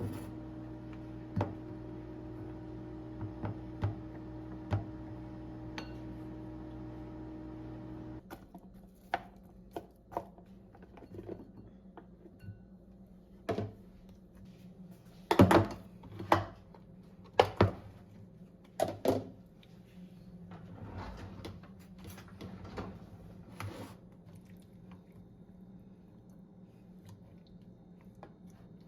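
A steady appliance-like hum that cuts off about eight seconds in, followed by scattered knocks and clinks of hard objects, like dishes being handled.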